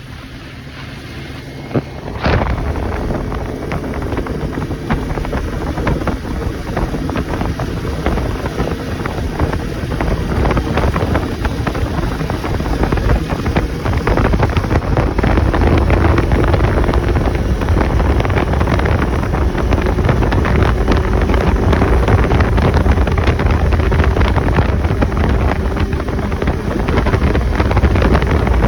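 ATV engine running under way with wind buffeting the microphone, getting louder over the first half and then holding steady. A short click about two seconds in.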